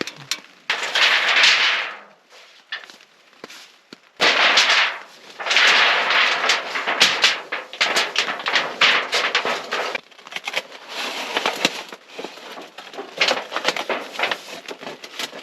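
Thin titanium sheet of a roll-up stove pipe crackling and rattling as it is handled and shaped into a tube. It comes in several long noisy stretches full of sharp clicks.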